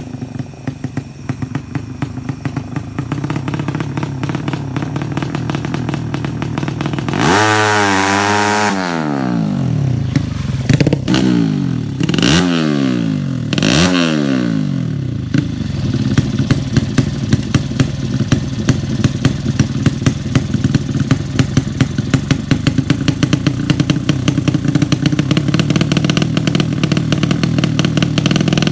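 Tuned 200cc racing motorcycle engine idling, then revved hard once about seven seconds in and blipped three more times. It settles back to an uneven idle with a rapid run of sharp pops and crackles.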